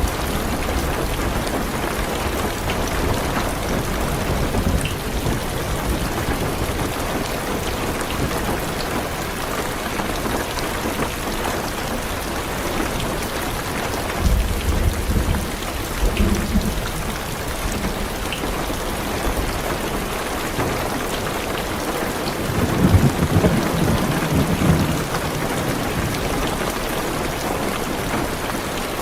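Heavy rain falling steadily on a car's roof and windows. Low thunder rumbles about halfway through and again, louder, later on.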